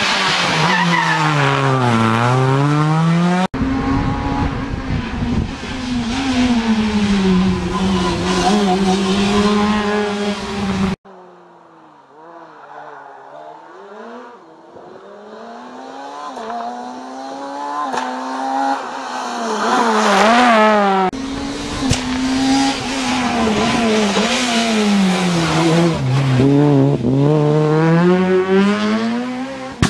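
Rally cars on a special stage revving hard, engine pitch climbing and dropping repeatedly through gear changes and braking, in several separate passes. After about eleven seconds a car is heard faintly at first and grows steadily louder as it approaches and passes.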